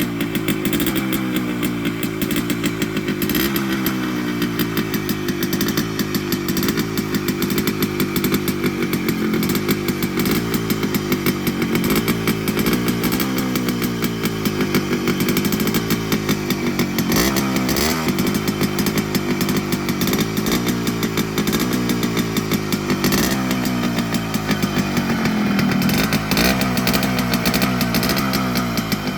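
Yamaha RX100 motorcycle's two-stroke single-cylinder engine running, its revs rising and falling over and over.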